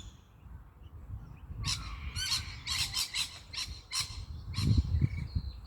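Birds giving a quick series of harsh, screechy calls, several a second, starting about a second and a half in, with a few low thumps near the end.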